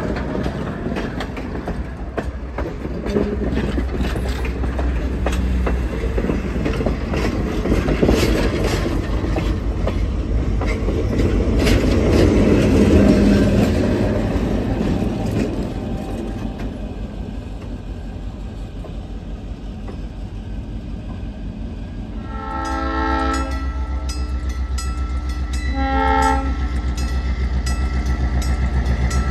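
Passenger train cars rolling past close by, wheels clicking over the rail joints. After about twenty-two seconds a diesel locomotive's air horn sounds a series of blasts for a grade crossing, one of them short and a long one near the end, over the steady ringing of the crossing bell.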